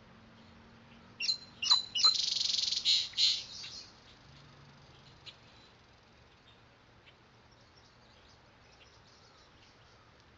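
A small bird singing: two quick high chirps about a second in, then a fast high trill lasting about two seconds, followed by faint scattered chirps.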